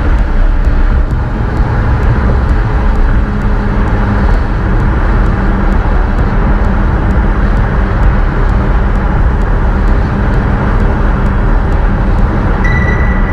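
McLaren 750S on the move: its twin-turbo V8 and road noise make a loud, steady low drone with no rises or breaks.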